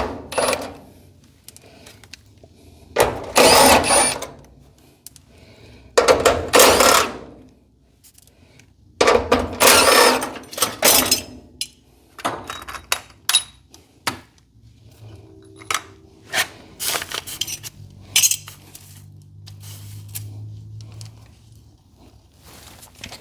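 A handheld power driver running in three bursts of about a second each, followed by scattered clicks and knocks of metal hardware and a faint low hum.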